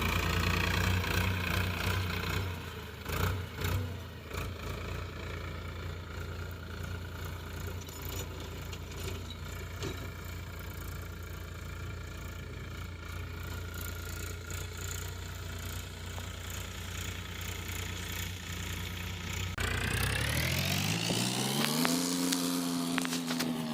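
Powertrac Euro 50 tractor's diesel engine running steadily, with a few knocks a few seconds in. Near the end it abruptly gets louder and revs up, the pitch climbing and then easing slightly.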